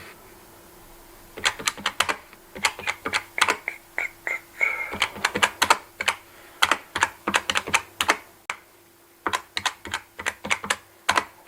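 Cash register keys being pressed in quick runs of sharp clicks, with two short pauses.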